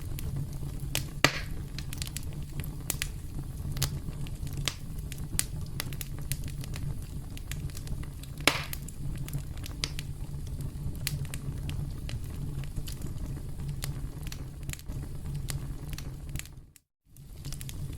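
Campfire crackling: a steady low rumble of burning wood with many small sharp snaps and two louder pops. The sound cuts out for a moment near the end, then returns.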